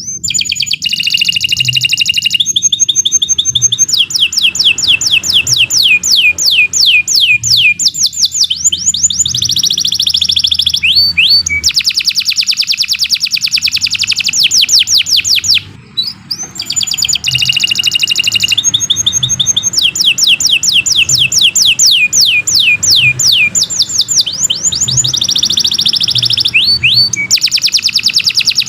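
Domestic canary singing a long, unbroken, high-pitched song of rapid trills and fast runs of repeated downward-sweeping notes. It breaks off briefly about halfway through, then starts again.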